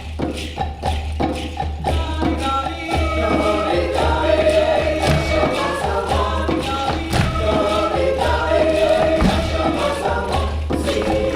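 Mixed choir singing a South African–style song in parts, with hand percussion tapping a steady beat. The voices grow fuller about two seconds in.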